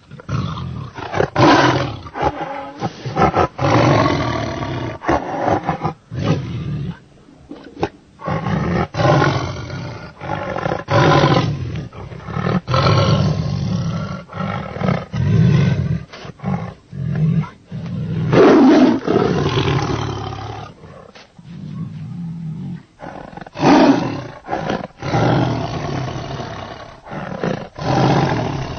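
Big cat roaring over and over, a long series of short roars with brief pauses between them.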